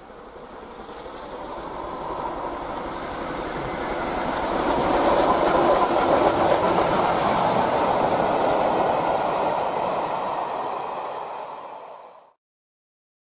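A train running on rails with a clickety-clack, growing louder, then fading, and cutting off abruptly about twelve seconds in.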